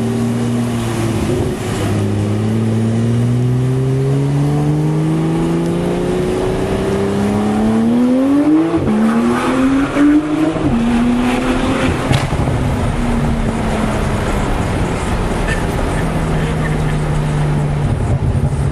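Porsche 991 Turbo's twin-turbo flat-six through a SOUL Performance exhaust, accelerating hard. The engine note climbs steadily for about seven seconds and drops at an upshift, then climbs briefly again before a second upshift about two seconds later. A few sharp cracks come around the shifts, and the car then settles to a steadier, lower note.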